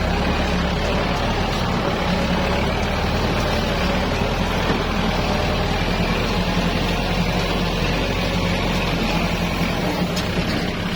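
Farm tractor's diesel engine running steadily at a constant pitch.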